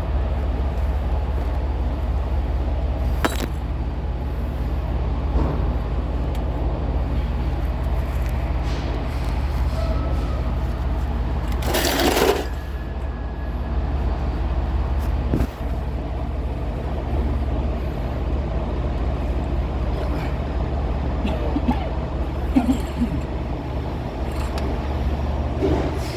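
Steady low rumble of an engine running, with one short burst of hiss about twelve seconds in and a few sharp clicks.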